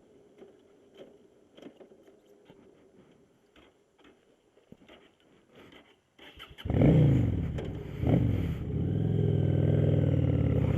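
Motorcycle engine restarting after stalling: near silence with a few faint clicks, then about two-thirds of the way in the engine fires and revs, its pitch rising and falling, before settling into a steady run.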